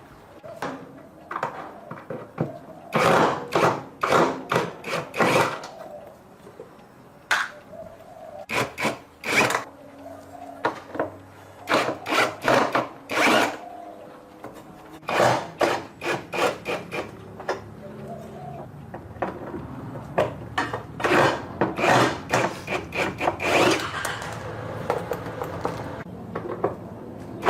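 Bursts of quick back-and-forth rubbing and scraping strokes from hand work on a part, several strokes a second with pauses between the bursts. A low steady hum comes in about two-thirds of the way through.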